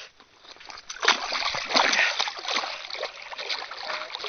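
Water splashing and sloshing as a big bass is let go from the hands into the lake. It starts suddenly about a second in and dies down to small sloshes near the end.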